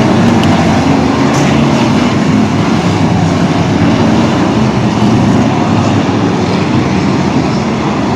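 A motor vehicle running: a loud, steady engine rumble with road or track noise, unbroken throughout.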